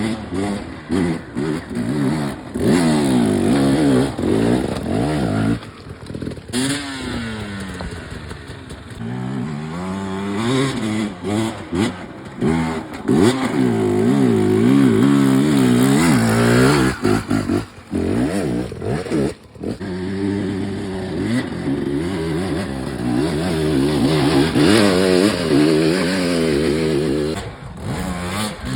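Dirt bike engines revving up and down hard while riding, the pitch climbing and falling repeatedly. The sound breaks off and changes abruptly several times.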